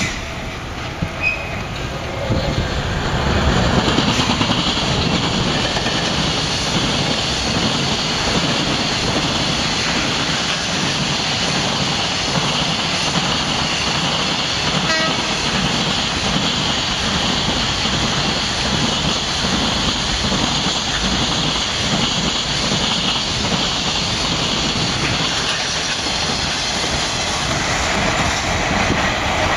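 Ohmi Railway 220-series electric railcar moving slowly with a rake of Hoki hopper wagons during shunting: steady rolling noise of the wheels on the rails and running gear, growing louder about three seconds in and then holding even.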